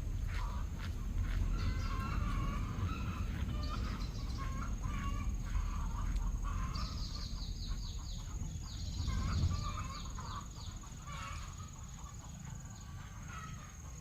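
Many egg-laying hens clucking and calling in a chicken house, some in quick runs of short notes, over a steady low rumble.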